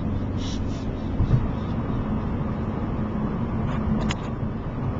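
Steady road and engine rumble inside a moving car's cabin, with one light thump about a second in.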